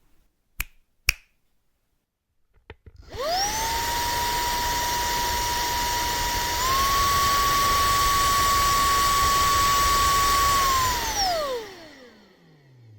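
SERVOMASTER cordless handheld vacuum cleaner. Two clicks are heard, then the motor spins up with a rising whine and runs steadily. About halfway through its pitch steps up as it is switched to its second, higher speed. Near the end it shuts off and winds down with a falling whine.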